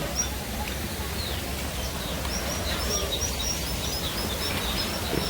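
Birds chirping: many short, high chirps in quick succession, more of them from about two seconds in, over a steady low rumble.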